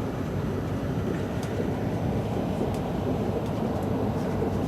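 Steady rumble of a moving train, heard from inside a passenger carriage, with a few faint ticks.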